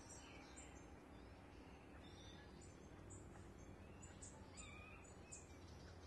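Faint birdsong: several birds giving short, high chirps and twitters, over a steady low background rumble of outdoor ambience.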